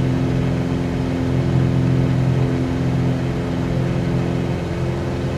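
Cessna 182Q's six-cylinder Continental engine and propeller running steadily in flight, heard from inside the cabin: a continuous low drone with evenly spaced overtones and an even noise underneath.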